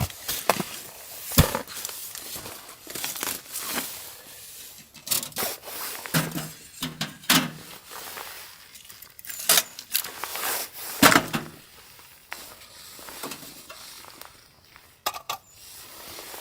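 Irregular knocks, clinks and rustling of things being handled, such as cookware and packaging, with a few sharper clacks spread through.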